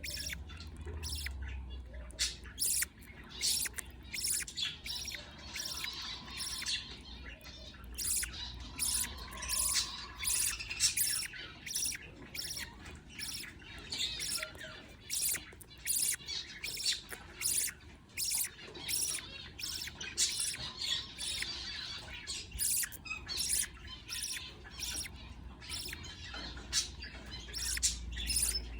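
Budgerigars chirping: sharp cheeps repeated two or three times a second, over softer warbling chatter.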